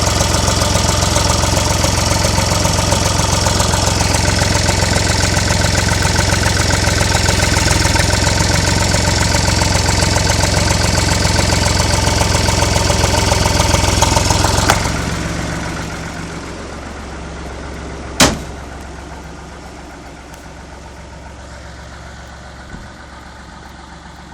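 Diesel engine of a 445 tractor fitted with power steering, running steadily, then dying away about fifteen seconds in to a low hum, followed by one sharp knock and later a faint click.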